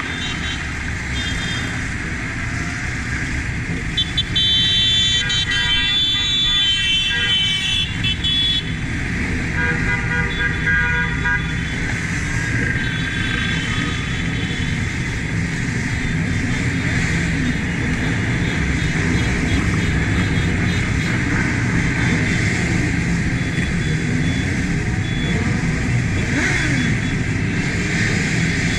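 Motorcycle riding in a convoy, its engine and rushing wind steady on a bike-mounted camera microphone. Vehicle horns sound several times between about 4 and 14 seconds in, the longest for about four seconds.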